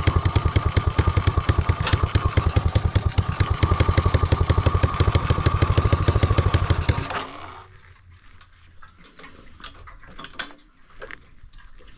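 Homemade go-kart's 250cc motorcycle engine running with a fast, even beat, then cutting out abruptly about seven seconds in, as if stalling. A few light clicks and knocks follow.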